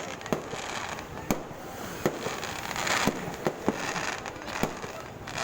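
New Year fireworks and firecrackers going off: a rapid, irregular string of sharp bangs, about a dozen, over continuous crackling.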